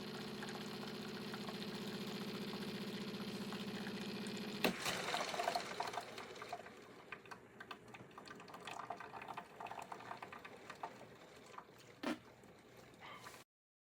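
A drip coffee maker's pump hums steadily and stops with a click about five seconds in. Liquid then drips and gurgles, fading, with another click near the end.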